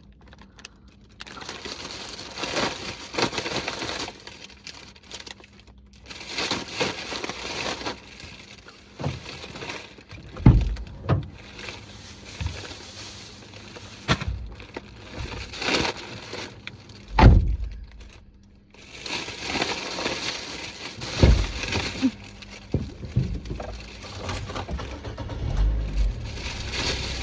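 Potato chips crunching as they are eaten, with a crisp packet crinkling: irregular crackles and clicks, plus a few louder low knocks.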